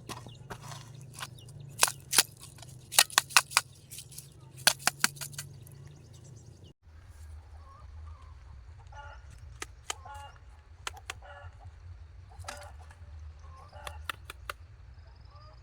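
A run of sharp knocks and clatters, loudest between about two and five seconds in. After an abrupt cut, chickens cluck in short, repeated calls over a low steady hum.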